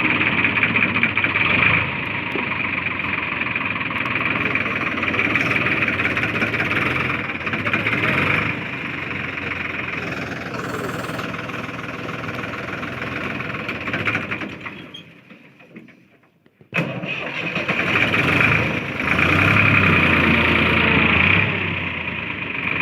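Ford 3600 tractor engine running loudly and steadily. About two-thirds of the way through, the sound fades away to near silence, then comes back abruptly a moment later.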